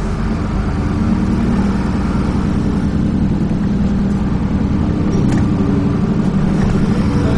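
Dennis Trident 2 double-decker bus's diesel engine running under way, heard from inside the bus: a steady low drone that grows a little louder about a second in.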